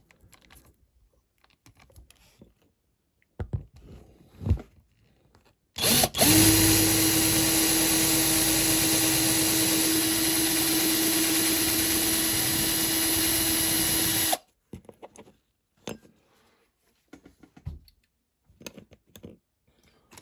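Small electric drill starting up and running at a steady pitch for about eight seconds, drilling into a Corgi diecast model's casting to free the grille, then stopping abruptly. Before it come a few light clicks of the model being handled.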